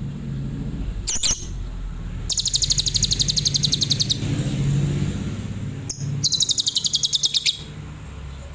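Lovebird singing: a short high call about a second in, then two long bursts of rapid, evenly repeated high-pitched chirps, the rapid-fire 'tembakan' song. A steady low hum runs underneath.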